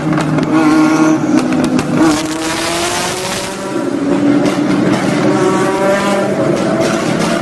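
Car engine revving hard, its pitch climbing several times, with a stretch of rushing noise in the middle.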